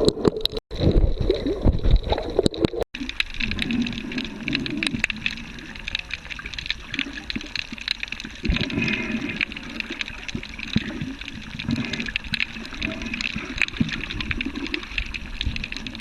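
Sea water washing and gurgling at the shore, with many small sharp ticks through it. The sound cuts out briefly twice in the first three seconds.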